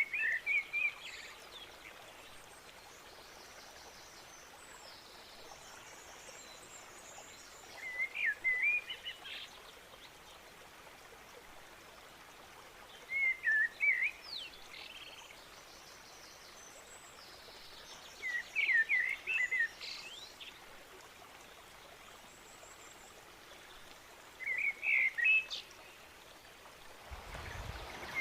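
A songbird singing short phrases of several quick chirping notes, one phrase about every five to six seconds, over a steady faint background hiss. A low rumble comes in near the end.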